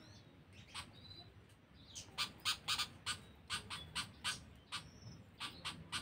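Small birds giving short, sharp chirps, several a second in irregular runs, with a brief thin whistle now and then; faint.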